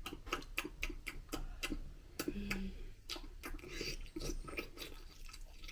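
Open-mouthed chewing of wet, chunky tinned dog food: a rapid run of wet mouth clicks and smacks, about three to four a second, with a brief hummed 'mm' about two and a half seconds in.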